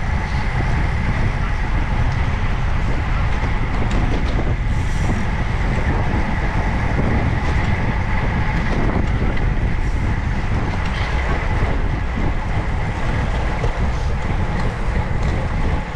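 Steady rush of wind on the microphone with tyre and road noise from a road bicycle being ridden.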